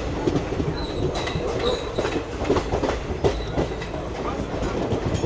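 Express passenger train running along the track, its wheels clattering over the rail joints, with a faint high squeal from the wheels about a second in.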